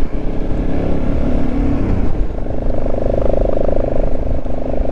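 Motorcycle engine running under way with wind rushing over the microphone. About two seconds in, the engine note changes to a higher, steady tone.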